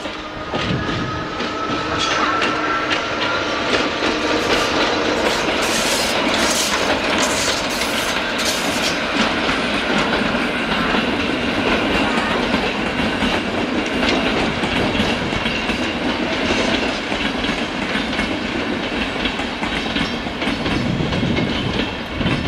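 A passenger train hauled by a ČD class 163 electric locomotive rolling past as it pulls out. The wheels give a steady rolling rumble with clickety-clack over rail joints and points. A faint whine rises slightly in pitch over the first few seconds.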